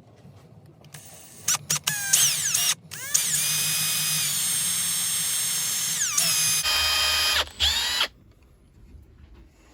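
Electric drill drilling a pilot hole into the plastic housing of a boat's throttle control head, with the plastic gunking up the drill bit. A couple of short bursts rise in pitch as the motor spins up, then a steady run of about three seconds winds down, and a last run of about a second stops around eight seconds in.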